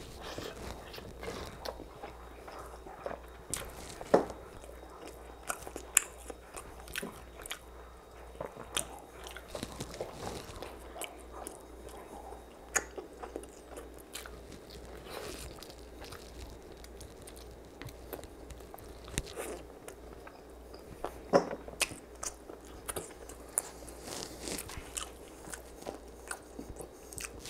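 Close-miked chewing and biting of honey garlic ribs, with many short, sharp smacks and clicks at irregular intervals.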